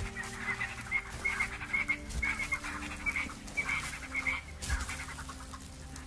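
Birds calling, a quick series of short high notes repeated several times a second.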